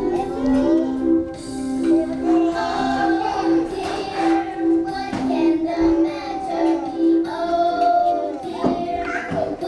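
A child singing over instrumental music, with a backing of short notes repeating in an even pattern.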